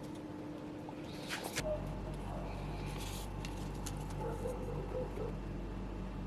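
A sharp click, then a steady low electrical hum starts and runs on under faint small handling sounds.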